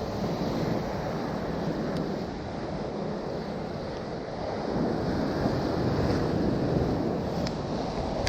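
Sea surf washing with wind rushing over the microphone: a steady noise that swells for a couple of seconds past the middle.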